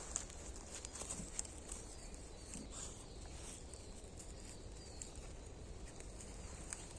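Small campfire crackling, with scattered irregular snaps over a steady low rumble.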